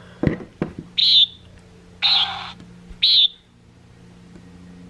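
Recorded common nighthawk calls played from a Wild Republic plush bird's sound box: three short nasal peents about a second apart. A couple of handling thumps come just before the first call.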